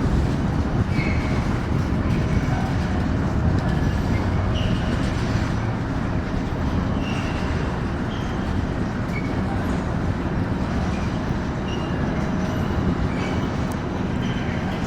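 A train moving on the tracks: a steady low rumble with short, faint high squeaks from the wheels scattered through it.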